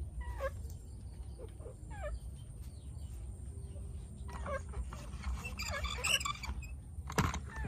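Scattered short calls from domestic fowl over a low steady hum, with a sharp knock near the end.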